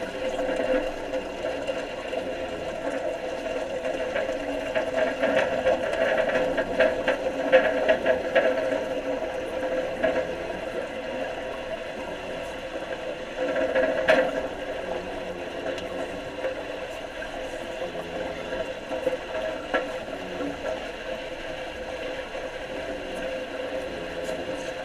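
Underwater wet arc welding: a steady buzzing with crackling from the arc. The crackle is heaviest from about four to ten seconds in and again around fourteen seconds.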